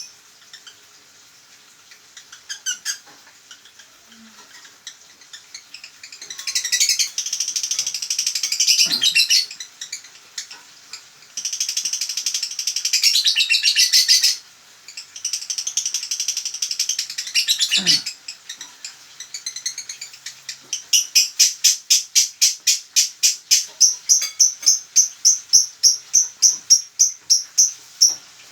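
A male songbird in breeding condition calling: long bouts of high, rapid chattering, then a run of sharp, evenly repeated notes at about three a second.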